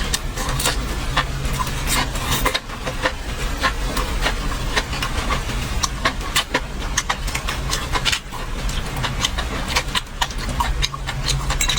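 Close-up chewing of crispy deep-fried food: irregular sharp crunches throughout, over a steady low hum.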